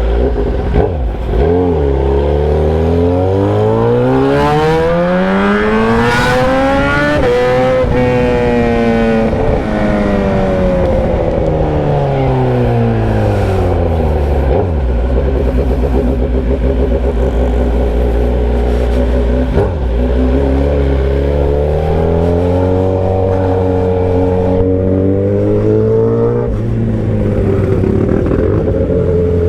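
Motorcycle engine running with its muffler removed, straight through the bare exhaust pipe, while riding. The revs climb for about five seconds and ease back down, hold steady for a while, then climb again before dropping off suddenly near the end.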